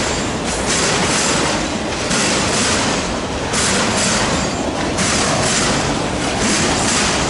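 Freight train cars rolling past, with loud wheel-on-rail noise that swells and dips about once a second as the cars go by.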